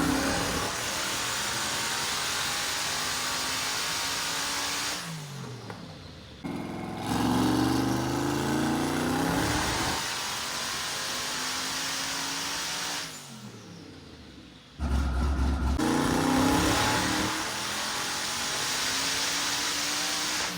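Twin-turbo 7.0-litre LSX V8 of a C6 Corvette making two full-throttle pulls. Each time the engine note climbs steadily, then drops off as the throttle closes, and it comes back loud a few seconds later.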